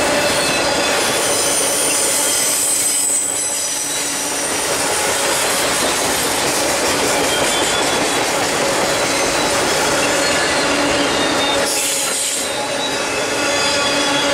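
A long string of loaded autorack freight cars rolls past on the track. Their steel wheels squeal in high, ringing tones over the steady noise of the passing train, with the squeal strongest about two seconds in and again near the end.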